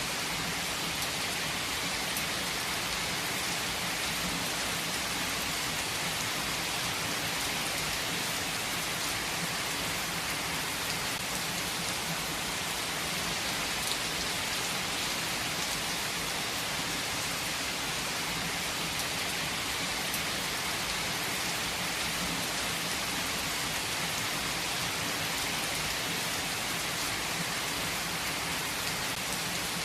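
Heavy rain falling steadily: an even hiss with scattered drop ticks and no letup.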